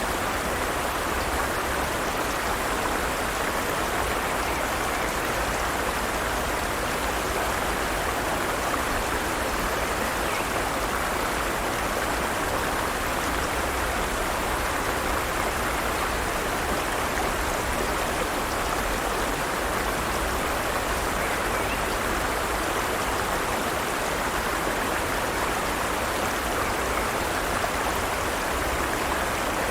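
Forest stream of water running over rocks: a steady, even rush.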